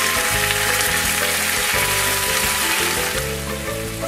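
Chicken-stuffed green peppers sizzling in a frying pan as the last of the steaming liquid cooks off, under background music. The sizzle thins near the end.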